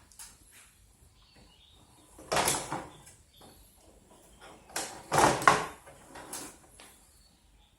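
Hands handling a circuit board and the fan's plastic parts: two louder scraping clatters about two and a half and five seconds in, with a few light clicks and knocks between.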